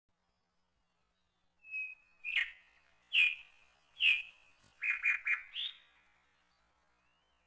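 A bird chirping: a string of short, high, falling calls starting about two seconds in, a quick run of three near the middle, and a final rising note.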